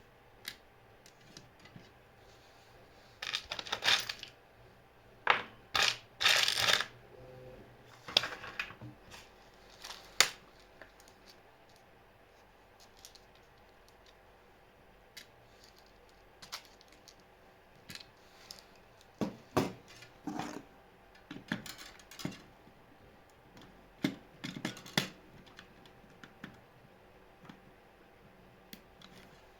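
Scattered clicks, clatters and short rustling scrapes of small hard objects being handled, coming in irregular clusters with quiet gaps between them, loudest in the first third and again around twenty seconds in.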